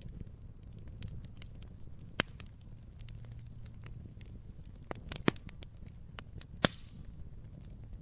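Wood fire crackling: irregular sharp pops and snaps over a low steady rumble, with several louder pops.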